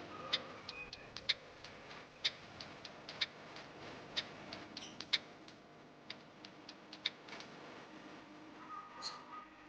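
Lovebirds giving a run of short, sharp, high-pitched chirps at irregular intervals, a few to several a second.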